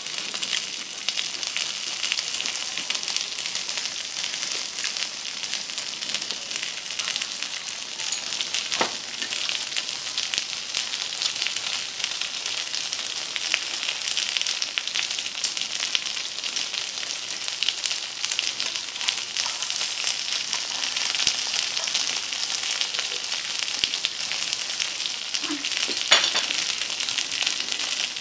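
Beef pieces, potato wedges and green beans sizzling on a hot tabletop grill pan, a steady crackle of spitting fat and juices with one sharper pop near the end.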